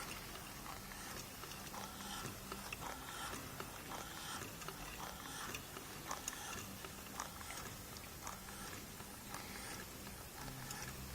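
Home-built 390 cc Stirling engine running slowly, with faint mechanical clicking and rustling that repeats about once a second, in step with its low running speed.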